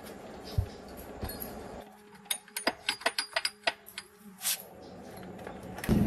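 A quick series of sharp metallic clinks and taps, like tools or parts knocking on metal, then right at the end an engine suddenly starts running loudly.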